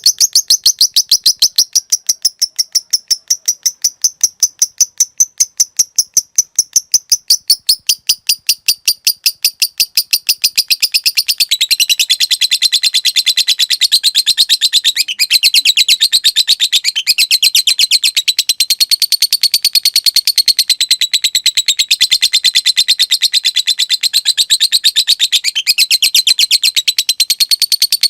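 A lovebird's long, unbroken chattering song (ngekek): a fast string of sharp, clicking notes that becomes denser and lower-pitched about 11 seconds in and keeps going without a pause.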